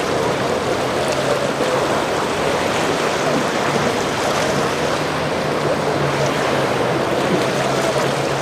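Steady rush of surf and wind noise, with the low hum of a boat engine coming and going underneath.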